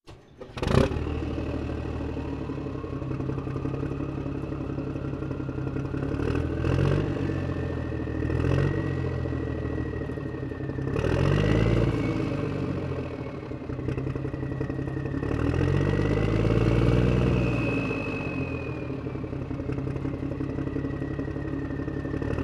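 A motor or engine running steadily after a click near the start, with a high whine that climbs over the first few seconds and then wavers, and a low hum that swells and eases every few seconds.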